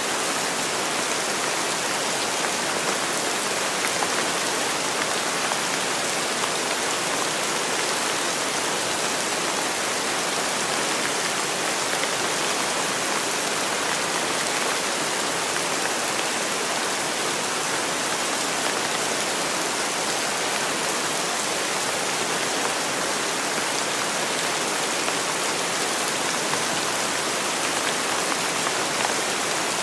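Steady, even rainfall: a dense hiss of rain falling on a surface, with no distinct drips, thunder or other sounds standing out.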